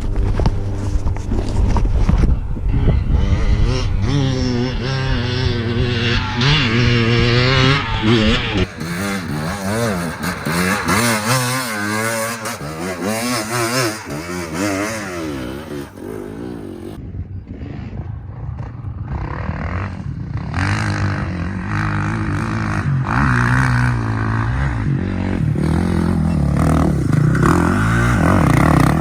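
Dirt bike engine revving up and down as it is ridden along a trail, its pitch rising and falling again and again. It eases off around the middle and picks up again near the end.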